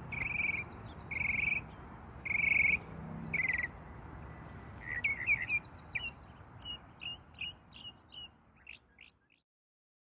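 Birds calling: a run of repeated calls about one a second, then a quicker series of short sharp chirps, over a steady low background hum. The sound cuts off abruptly near the end.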